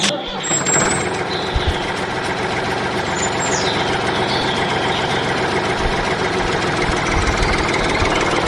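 An engine starts abruptly and runs steadily, with birds chirping faintly over it.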